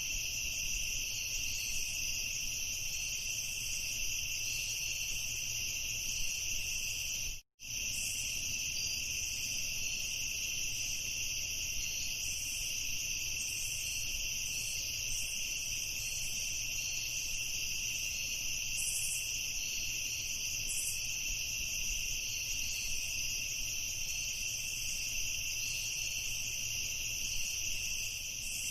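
Night chorus of crickets: a steady, unbroken high trill. It cuts out completely for an instant about seven seconds in.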